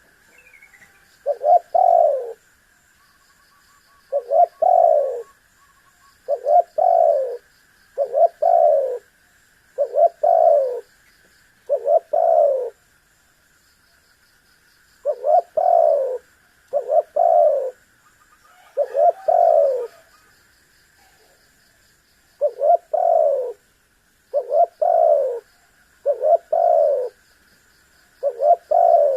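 Spotted dove (tekukur) cooing its repeated 'kuk-kurr' phrase, about once every one to two seconds with a couple of short pauses, in a lively calling bout. A steady high-pitched hum and faint high chirps run behind it.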